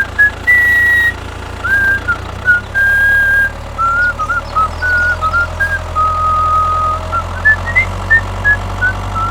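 A whistled tune, one clear note at a time stepping and sliding up and down, over a steady low hum that grows stronger about halfway through.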